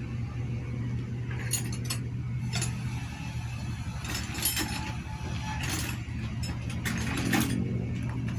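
Hand tools working on a motorcycle engine being dismantled: scattered metallic clicks and clinks, with ratchet-like clicking, over a steady low hum.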